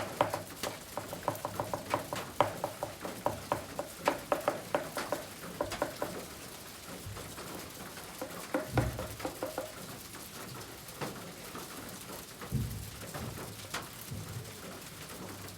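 Oil pastel tapping and stroking on kraft paper in quick short strokes, several a second, for about the first six seconds, then a few soft thumps on the drawing surface.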